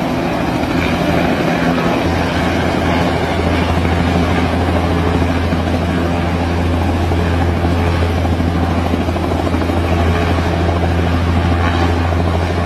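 Helicopter running close by, with a steady low throb from its rotor under a constant rushing noise. The throb grows stronger about two seconds in.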